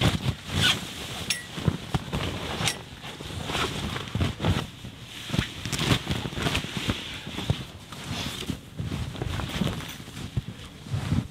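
Heavy canvas of a bell tent rustling and flapping as it is raised on its pole and handled, with irregular knocks and crunches.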